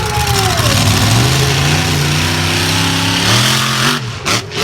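A vehicle engine revving: its pitch climbs steadily for about two seconds, then drops and breaks off near the end, over a loud noisy background.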